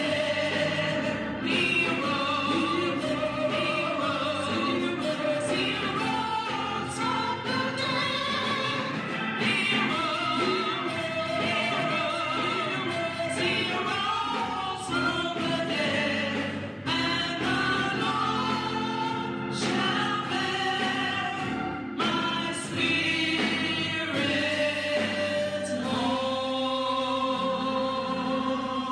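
Choir singing with instrumental accompaniment, the voices wavering with vibrato; near the end the music settles into long held chords.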